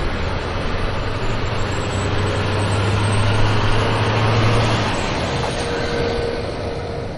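Steady rumbling noise like a motor vehicle running, with a low hum that drops away about five seconds in and the sound easing off near the end.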